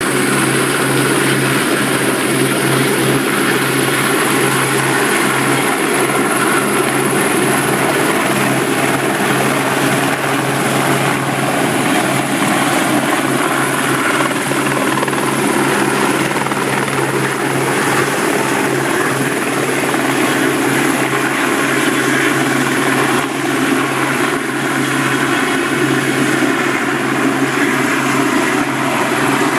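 Helicopter turbine engine and rotor running steadily at takeoff power, with a high, thin turbine whine held above the rotor noise.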